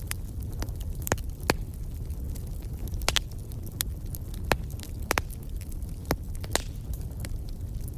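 Wood fire crackling in a fireplace: irregular sharp pops and snaps, about a dozen, over a steady low rumble.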